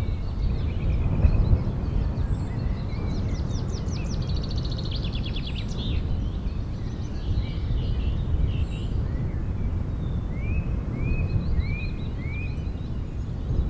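Birds chirping over a steady low rumble: a fast trill a few seconds in, then four short rising chirps near the end.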